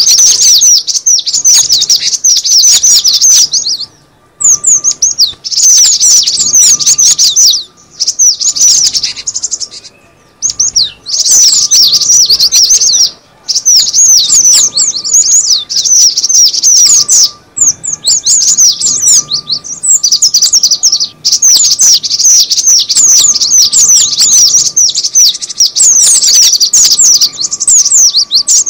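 Cinereous tit (gelatik batu) calling in a lure recording: dense runs of fast, high, sharp chirps, broken by short pauses every few seconds.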